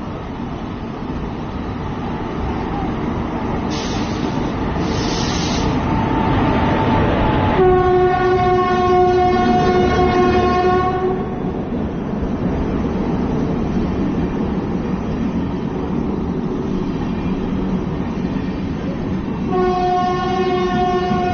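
Trivandrum AC Express train running on the track with a steady rumble that grows louder over the first several seconds, sounding its horn in a long blast about eight seconds in and again near the end.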